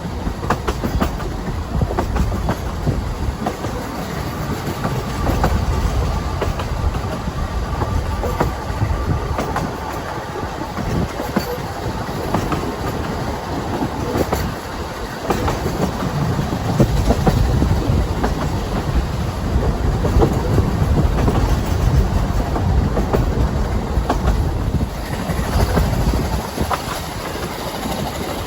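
Ffestiniog Railway narrow-gauge train running, a steady rumble with the clatter of wheels over rail joints.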